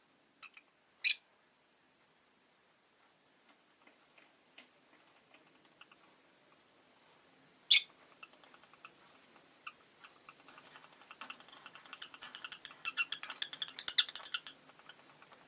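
Rosy-faced lovebirds giving a few sharp single chirps, then a run of soft, rapid clicking and chatter that grows busier over several seconds and stops near the end.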